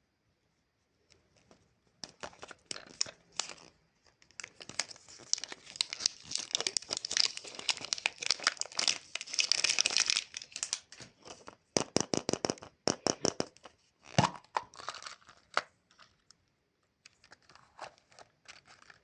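Chupa Chups lollipop's plastic wrapper being crinkled and torn open: a dense run of sharp crackles that thins out near the end.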